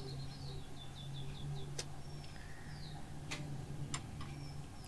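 Small birds chirping in short, high, falling notes over a steady low hum, with three sharp clicks in between.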